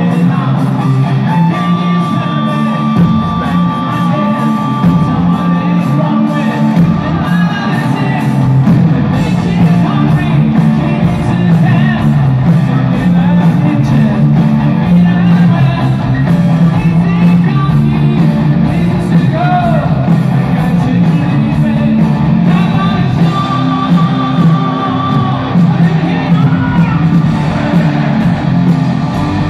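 Live rock band playing loud: electric guitars over bass and drums, with a singing voice coming in partway through.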